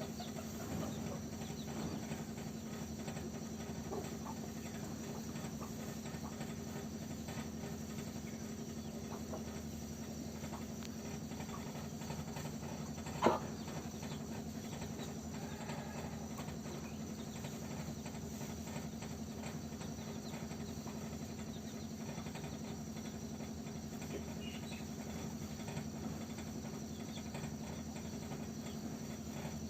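Quiet rural background with steady insect chirping, likely crickets, over a low steady hum, and a single sharp knock about 13 seconds in.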